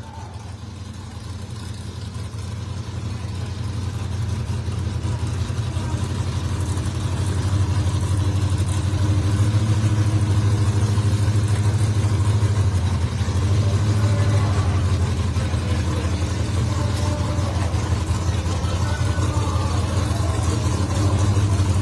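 Drag car's supercharged V8 engine running, a ProCharger by the announcer's guess. It grows louder over the first eight seconds or so, then holds loud with a brief dip about thirteen seconds in.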